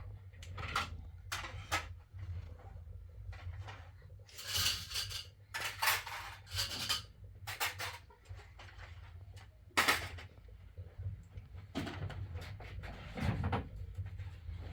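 Dishes and utensils being handled: irregular clinks, knocks and scrapes, with one sharper clatter about ten seconds in.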